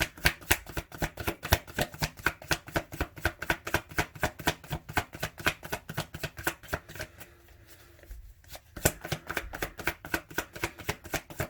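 Tarot cards being shuffled by hand: a steady run of quick card taps, about five or six a second, with a short pause past the middle before the shuffling resumes.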